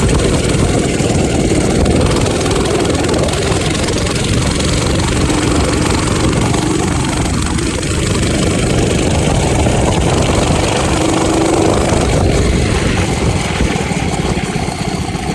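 Minibike's small engine running steadily with some rise and fall in pitch, then dropping off near the end as the engine starts to die.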